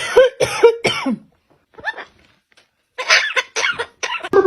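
A parrot mimicking a cough: three coughs in the first second or so, then a quicker run of coughs from about three seconds in.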